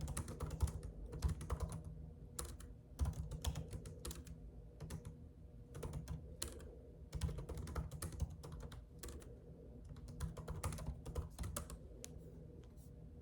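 Typing on a computer keyboard: quick, irregular runs of key clicks with short pauses, thinning out near the end, over a low steady hum.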